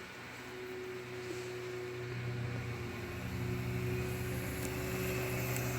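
Dirt bike motor running with a steady hum, growing gradually louder as the bike comes closer.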